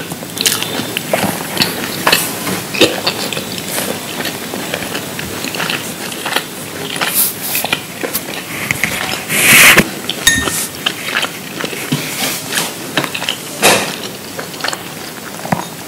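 Close-miked ASMR eating: chewing and crunching of crisp food, with many sharp crackling bites and one louder, longer crunch a little after halfway.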